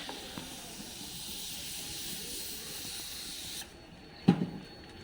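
A steady hiss cuts off abruptly after about three and a half seconds. Then comes a single sharp, loud knock.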